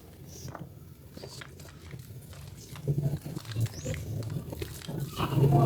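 Wet squishing and crackling of soaked bar soap being squeezed and lathered by hand, getting louder from about halfway through.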